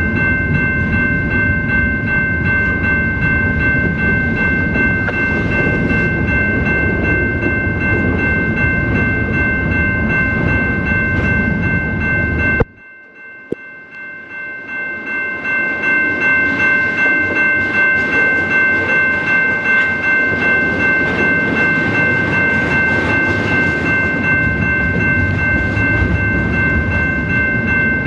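A double-stack container train rolls past over the rails with a heavy rumble and clatter, while a grade-crossing bell rings steadily over it. A little under halfway through, the low rumble cuts out suddenly and builds back up over a few seconds.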